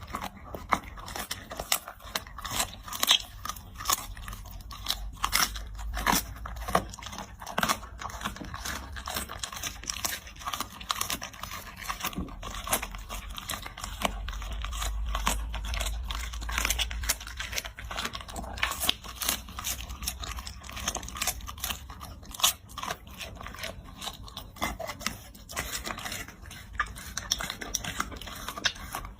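A dog chewing and crunching food, with many quick, irregular crunches and clicks, over a low hum.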